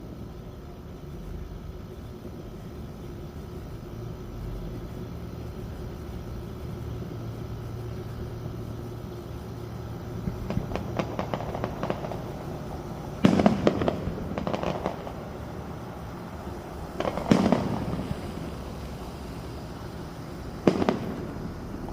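Fireworks going off. About ten seconds of low background give way to a run of crackles. Then three loud bangs follow a few seconds apart, the first trailed by crackling.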